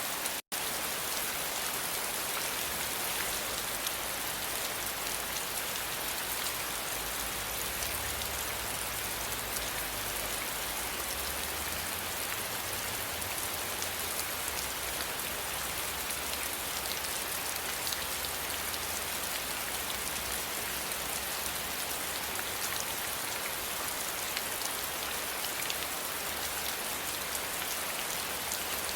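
Steady rain falling on a surface, an even hiss of many drops. The sound cuts out for an instant about half a second in.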